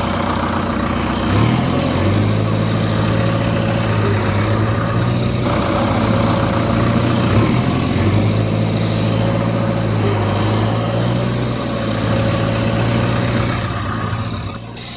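A vehicle engine running steadily at a low, idle-like pitch, with its pitch stepping up or down a few times.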